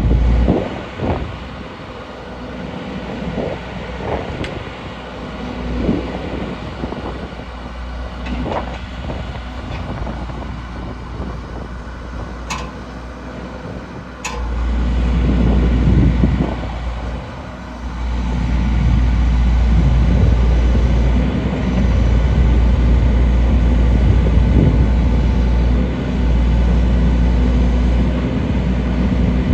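John Deere 310J backhoe loader's diesel engine running with a strong low drone. It is quieter through the first half and grows louder from about halfway, with two sharp clicks just before the rise.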